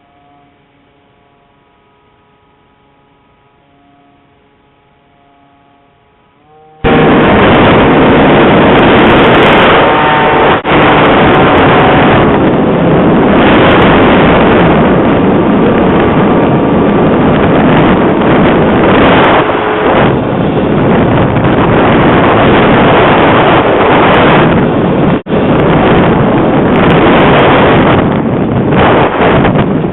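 Faint music, then about seven seconds in a sudden, very loud rush of strong wind blowing across the microphone. The rush stays steady, with a few brief dips.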